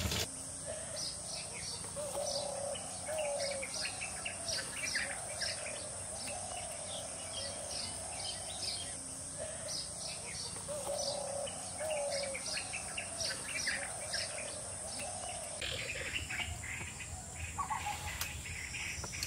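Birds chirping and calling: many short, high chirps mixed with lower warbling phrases, over a steady high hiss.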